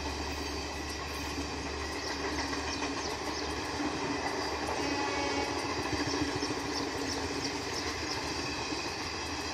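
Passenger coaches of an Indian Railways Garib Rath express rolling past at speed: a steady rumble and clatter of steel wheels on rail, with scattered clacks as the bogies cross rail joints.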